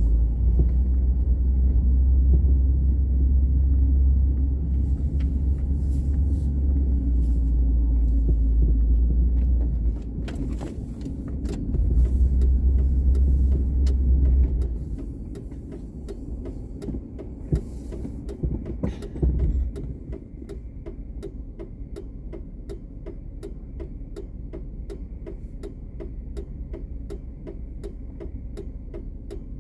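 Low rumble of a car driving on snowy roads, heard from inside the cabin, easing off about fifteen seconds in. Around twenty seconds in, a steady, rapid ticking of the turn-signal indicator begins.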